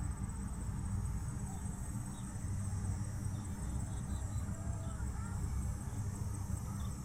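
Insects chirping in a steady, rapid high-pitched pulse over a low rumble, with a few faint short chirps.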